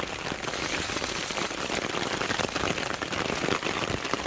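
Heavy rain falling on a camping tarp overhead, a dense, steady patter of drops.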